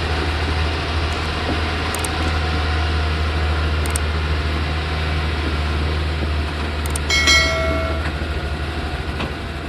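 Loaded Thaco truck's diesel engine running steadily with road noise. About seven seconds in comes a short high-pitched tone, under a second long and the loudest moment.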